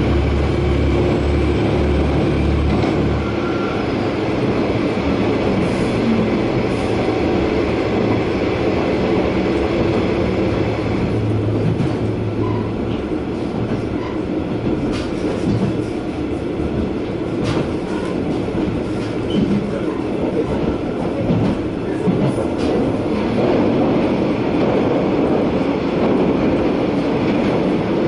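Diesel railcar running along the line, heard from inside the car. A low engine drone in the first few seconds eases off, leaving the steady rumble of wheels on rail with scattered clicks from the track.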